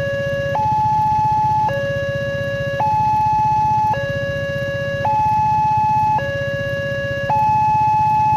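Railway level-crossing warning alarm sounding a steady two-tone hi-lo signal, switching pitch about once a second, the warning that a train is approaching and the crossing is closed. A low engine rumble runs underneath.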